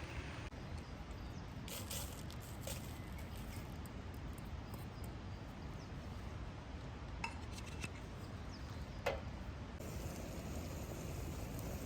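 A few light clinks and clicks, small hard objects knocking together, the strongest about nine seconds in, over a steady low outdoor background noise.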